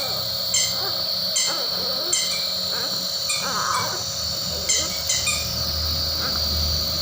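About seven short, high chirps like a small bird's at irregular intervals, over a steady high-pitched buzz.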